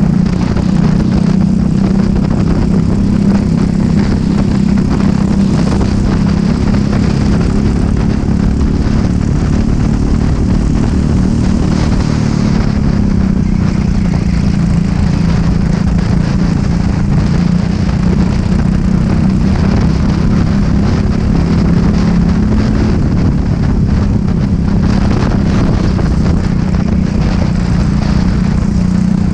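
Racing kart engine running hard through a lap, its pitch easing off about twelve seconds in and climbing back as it accelerates again.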